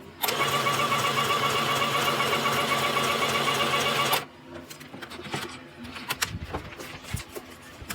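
Sew Simple K1127 electric sewing machine running and stitching for about four seconds, a steady motor whine with rapid needle strokes, then stopping suddenly. A few light clicks follow.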